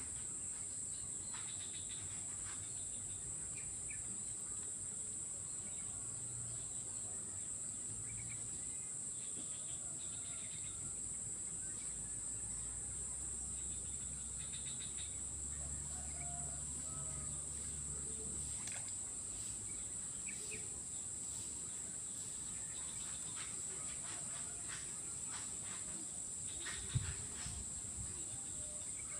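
A steady, high-pitched insect chorus from swamp-side wildlife, with scattered short bird chirps and small clicks over it. There is one sharp tap near the end.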